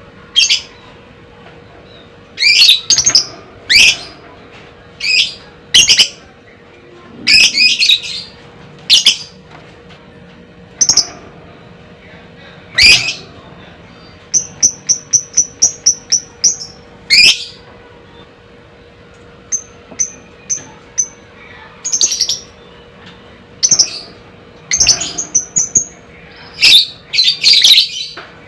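Fighter lovebird calling: loud, shrill, sharp chirps at irregular intervals, broken twice by a quick run of short repeated notes. A faint steady hum sits under the calls.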